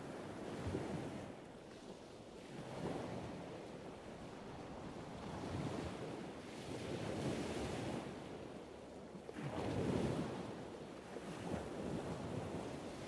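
Added ambient water sound: waves washing in, swelling and fading in slow surges a few seconds apart, with wind over it.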